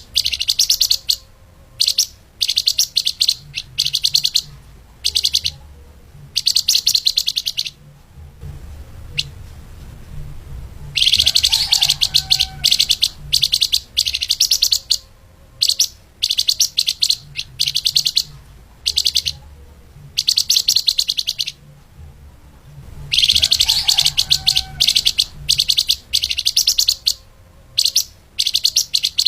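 Flamboyan (lemahan) songbird singing a fast, dense high-pitched trill in repeated bursts about a second long with short gaps. Longer runs come about 11 and 23 seconds in.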